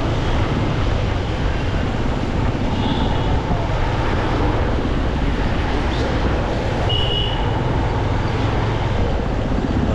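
Riding a motorcycle through city traffic: a steady, dense rumble of engine, road and traffic noise. Two short high-pitched tones come through, about three and seven seconds in.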